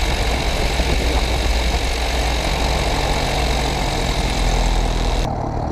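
Piper Cherokee's piston engine and propeller running steadily at low power while taxiing, heard from the cabin as a low drone with a hiss over it. The hiss cuts away abruptly near the end, leaving the engine drone.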